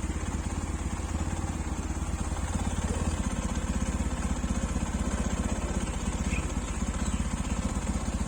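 Yamaha FZ-X's single-cylinder engine running steadily, with an even, fast firing pulse.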